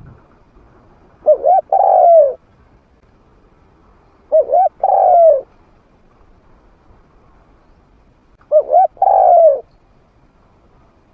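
Spotted dove cooing in a mid-pitched voice: three calls a few seconds apart, each two short coos followed by a longer falling coo.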